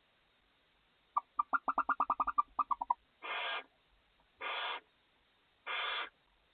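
Barn owls in a nest box: a rapid run of about a dozen twittering chirps lasting nearly two seconds, then three separate short rasping hisses about a second apart.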